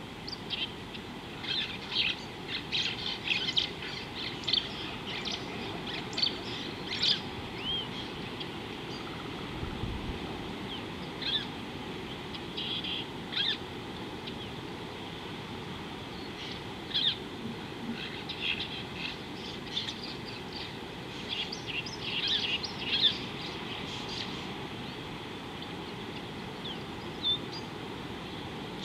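Small birds chirping: clusters of short, quick high notes that come and go in several bursts, over a steady low background hiss.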